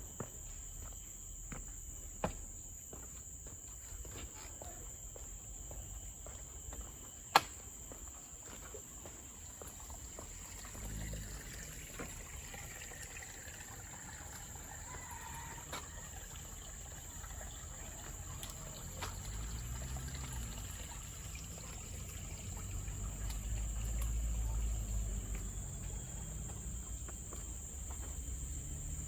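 Steady, high-pitched chorus of forest insects, with a few sharp clicks, the loudest about seven seconds in. A low rumble rises in the second half.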